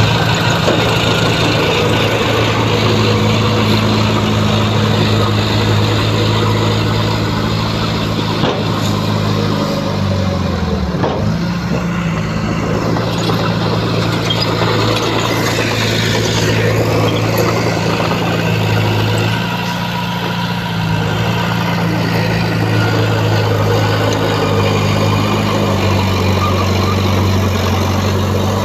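Bulldozer's heavy diesel engine running steadily, its pitch sagging about eleven seconds in as the load comes on, and shifting again near the end.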